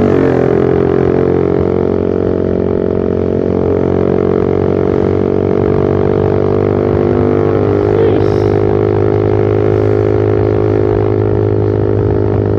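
Motorcycle exhaust through a short, open Pro Liner aftermarket muffler with the dB killer removed, droning at a steady engine speed. It is loud and even throughout.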